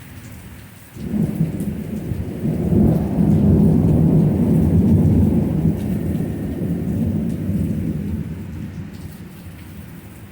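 Thunder rumbling over steady rain: it starts suddenly about a second in, grows to its loudest over the next few seconds, then rolls away slowly.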